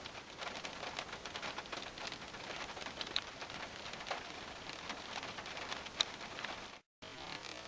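Rain falling, with scattered drops landing close by as sharp ticks. The sound cuts out for a moment near the end.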